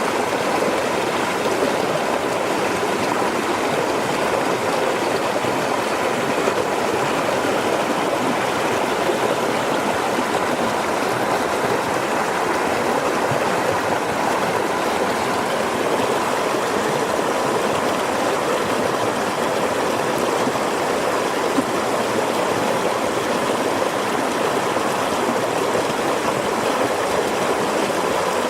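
Steady rush of a flowing river or stream.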